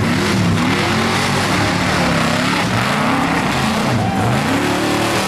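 Mega mud truck engine revving hard, its pitch climbing and dropping again and again, loud over a rushing noise.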